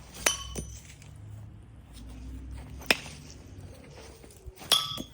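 Throwing knives striking a wooden log-round target: three sharp impacts, the first and last with a brief metallic ring from the steel blade, and one knife sticking in.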